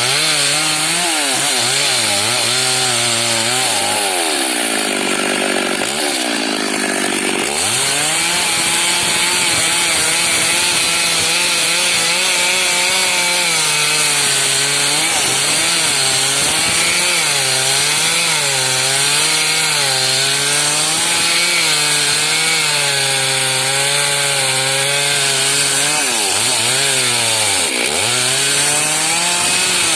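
Stihl MS 382 two-stroke chainsaw cutting wood under load, its engine pitch wavering as it works. The pitch rises for a few seconds about five seconds in and dips sharply for a moment near the end.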